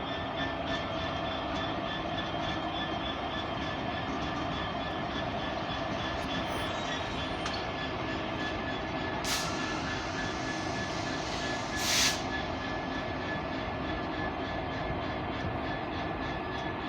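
A diesel train running steadily at a station, with a steady whine over its noise. Two short hisses come about nine and twelve seconds in.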